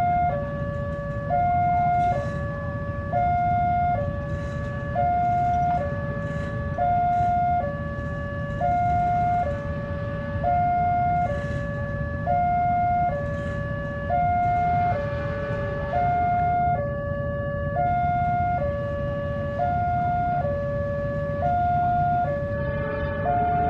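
Railway level-crossing warning alarm sounding a steady two-tone hi-lo signal, each tone held just under a second, the signal that a train is approaching and the barrier is down. A low rumble runs beneath it.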